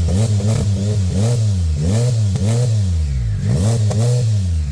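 Can-Am Spyder F3's Rotax 1330 inline three-cylinder engine revved through its exhaust in a quick series of throttle blips, the pitch rising and falling several times in a row.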